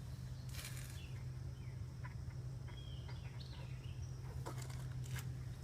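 A few faint, short chirps from a small bird, with brief rustling and a few light clicks, over a steady low hum.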